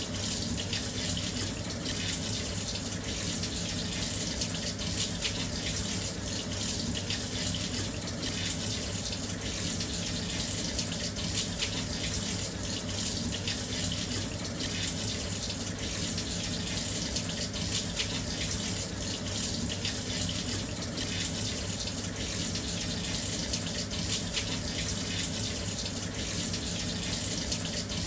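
Washing machine filling with water: a steady, even rush of water flowing into the drum, with a low hum underneath.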